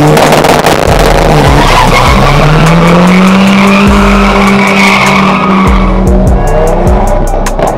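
Audi Q3 2.0T's turbocharged four-cylinder engine revving hard as the car launches from the line, its pitch climbing over the first couple of seconds, holding high, then falling away near the end. Background music with a steady beat plays underneath.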